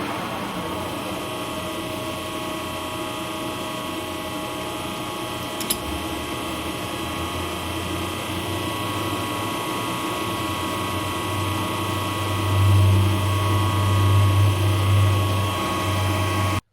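Machine tool running while cutting nylon spacers, with a steady gear whine and a low hum that builds about six seconds in and is strongest near the end. There is a single click partway through, and the sound cuts off suddenly just before the end.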